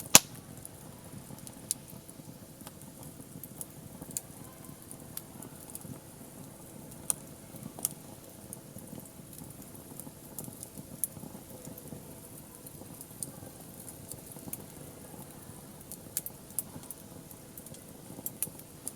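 Wood fire crackling, with scattered sharp pops over a low steady hiss; the loudest pop comes right at the start.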